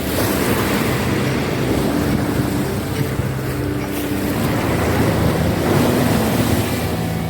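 Sea surf and wind buffeting the microphone, with a low steady hum underneath.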